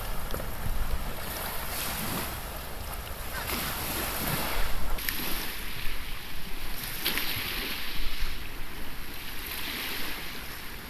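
Small waves washing onto a beach, swelling in repeated surges, with wind rumbling on the microphone.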